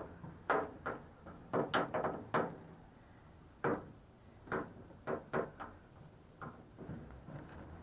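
Irregular knocks and clunks of an object being handled and shifted, over a dozen in all. They come in quick clusters at first, with a gap about three seconds in, then grow sparser and fainter near the end.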